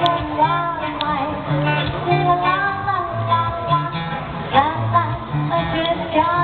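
Live acoustic guitar strummed with a voice singing a melody over it.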